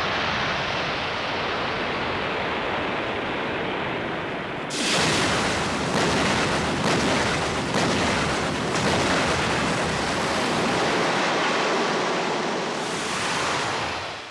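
Steady rushing noise that grows louder and brighter about five seconds in, with several sharper surges, then fades away near the end.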